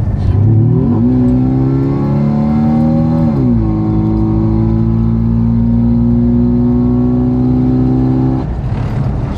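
Jeep Cherokee XJ engine under heavy acceleration from about 30 to 50 mph, breathing through an aftermarket Specter cold air intake, heard from inside the cabin. The revs climb, drop sharply at an upshift about three and a half seconds in, then pull steadily in the next gear before easing off near the end.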